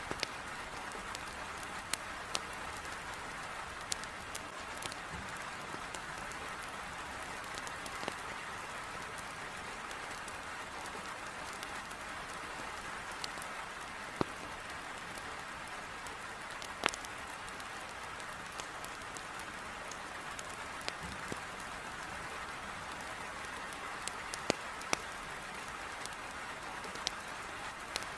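Heavy rain hissing steadily against a window, with a wood fire in a fireplace giving off sharp crackling pops at irregular intervals, a few seconds apart.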